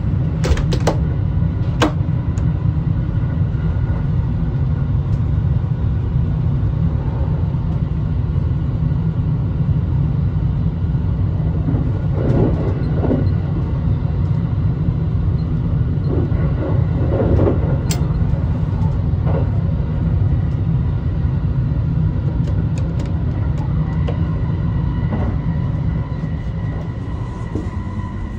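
Steady low rumble of the Sunrise Izumo sleeper train running, heard inside the carriage, with a few sharp clicks and knocks near the start and one again about two thirds of the way through.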